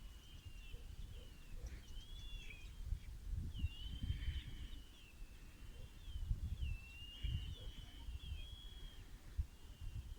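A bird singing a continuous run of high, whistled phrases, each one rising and falling, over an uneven low rumble.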